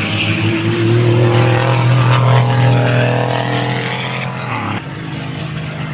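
Racing trucks' diesel engines running hard at high revs, pitch rising a little then holding steady; the sound drops suddenly in level near the end.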